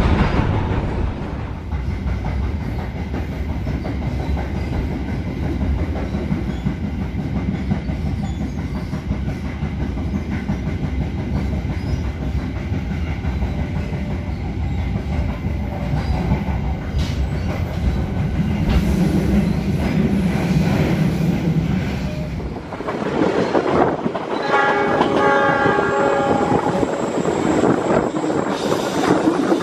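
Passenger train under way: steady rumble of the coach and clatter of the wheels on the rails. About three-quarters of the way through the sound turns more open and windy, and near the end the diesel locomotive's horn sounds for about three seconds.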